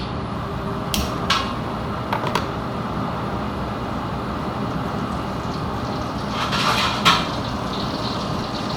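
Steady roar of a gas burner heating cooking oil in a pot, with a few short metallic clinks of cookware about a second in, around two seconds in and near seven seconds in.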